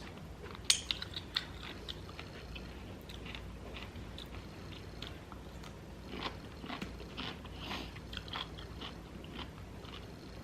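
Crunchy bites and chewing of food: a few sharp crunches about a second in, then a run of softer crunching chews later on.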